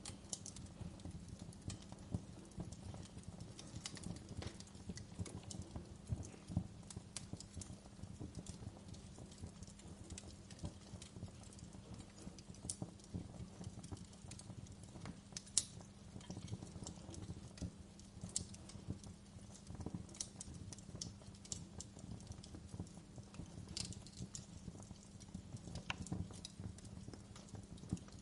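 Wood fire burning in a fireplace: logs crackling steadily with dense small snaps, and now and then a sharper pop, the loudest about halfway through.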